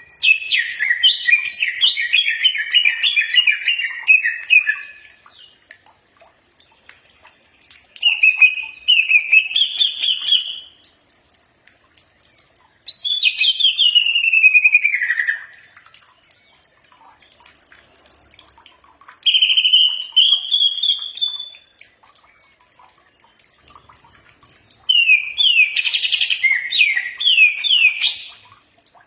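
Cucak ijo (green leafbird) singing in five separate phrases of rapid warbled notes and sweeping whistles, with a pause of a few seconds between phrases. The phrases vary: some rise, one falls away, and the last is a quick run of repeated notes near the end.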